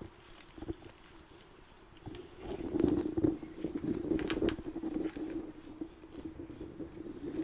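Hand work on a motorcycle engine: small clicks, taps and scraping of a bolt and line fitting being handled and started into its threads, getting busier from about two seconds in, over a steady low hum.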